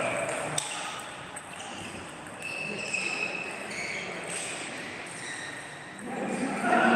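Table tennis hall noise: a few scattered sharp ticks of ping-pong balls striking tables and paddles, over a background of faint distant voices; the voices grow louder near the end.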